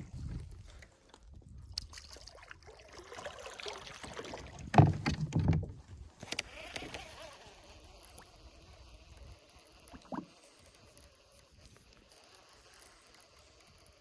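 Water sloshing and small handling noises around a fishing kayak, with one louder low thud about five seconds in.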